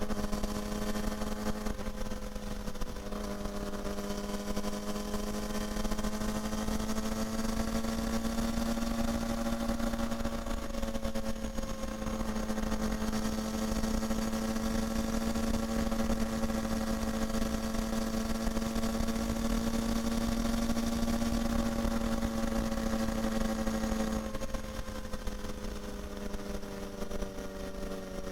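Honda Hornet 250's inline-four engine running steadily at a raised speed, its exhaust note held at a near-constant pitch, then easing off slightly, lower in pitch and level, near the end.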